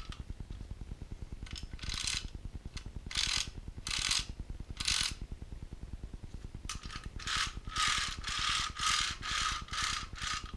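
Scale-model crawler crane's track links rattling as the tracks are rolled back and forth by hand. A few separate runs of clatter come first, then a quicker series of about two a second with a faint ring to them.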